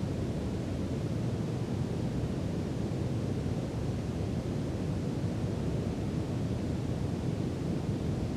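Brown noise: a steady, deep rushing hiss, heaviest in the low end and unchanging throughout.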